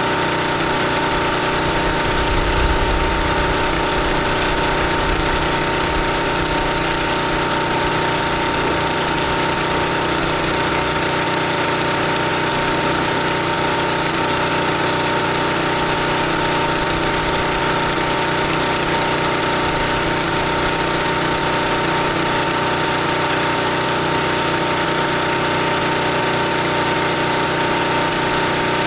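Gas-engine pressure washer running steadily at constant speed, its steady engine note mixed with the hiss of the water spray.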